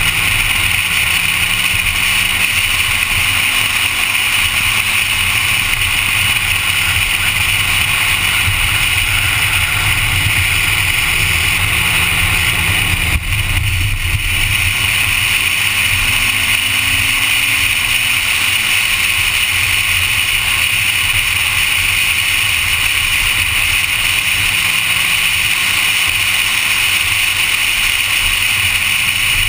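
Honda Civic engine running hard at track pace during lapping, its pitch rising and falling with throttle and shifts under a loud, steady rushing noise, with a brief drop about 13 seconds in.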